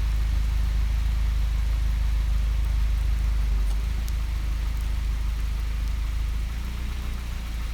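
Car engine running, heard from inside the cabin as a steady low rumble, easing slightly about six and a half seconds in.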